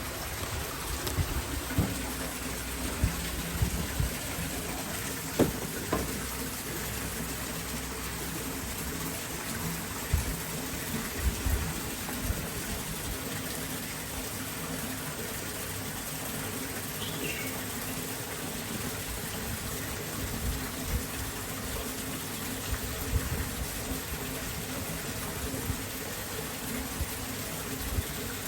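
Heavy rain pouring steadily, with strong wind gusting in low rumbles now and then.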